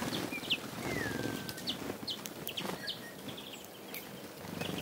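Birds chirping and calling, with a short falling whistle about a second in, over a busy low background of animal or farmyard sound.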